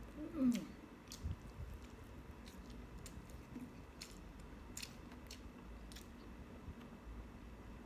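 A person chewing a mouthful of instant noodles and rice, with faint wet mouth clicks and smacks. A short hummed "mm" comes about half a second in.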